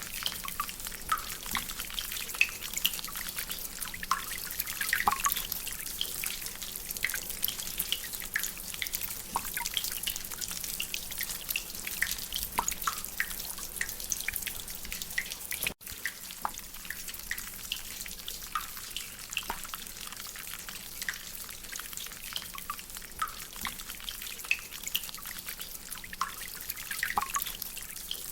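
Rainwater dripping from a drainpipe: many irregular drops, each a short pitched plink, over a steady background hiss. The sound cuts out for an instant about halfway through.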